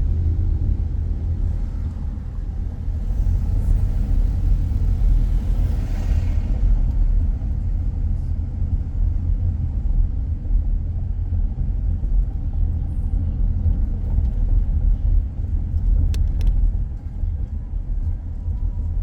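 Car driving, heard as a steady low rumble of road and engine noise, with a hiss that swells and fades about three to six seconds in and a couple of short clicks near the end.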